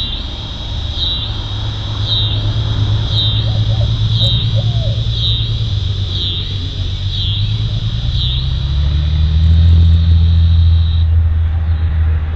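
Crickets chirring in a steady, high-pitched chorus that pulses about once a second and stops about eleven seconds in. Under it runs a louder low rumble that swells about nine seconds in.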